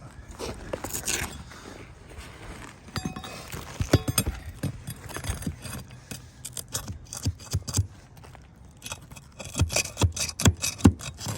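A metal tool scraping and knocking against ridge cap shingles as they are pried loose from nails and the tar line they are stuck to: an uneven run of sharp taps, clinks and scrapes, coming thicker and louder in the last few seconds.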